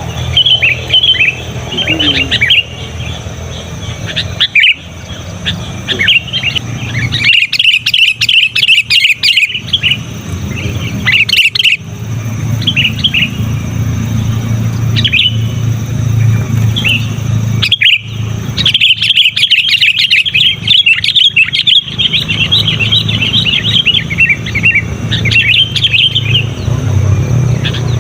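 Sooty-headed bulbul (kutilang) singing loudly: quick, chirpy notes that build into dense chattering runs twice, over a steady low hum.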